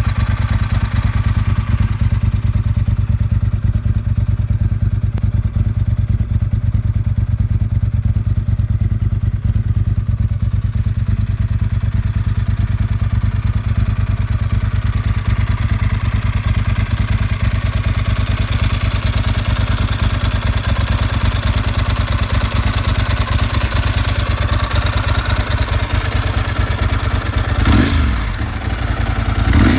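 Ducati 996's 90-degree V-twin engine idling steadily, then revved briefly near the end.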